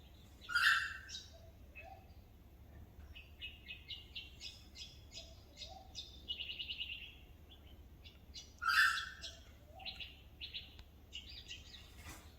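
Several birds calling: two loud, harsh calls, about a second in and about nine seconds in, with a run of short, high chirping notes and a brief trill between them.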